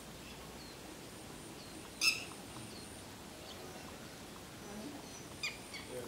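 Wild birds calling: scattered short, high chirps and one louder, sharp call about two seconds in, over a faint steady outdoor background noise.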